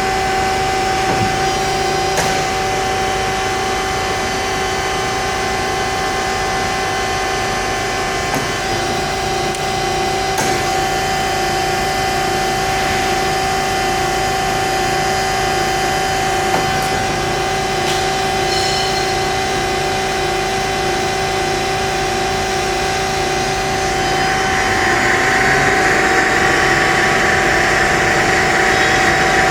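HEM VT125HA-1 vertical tilt frame band saw running, with a steady machine hum holding a few constant tones. Near the end, a louder grinding hiss joins in.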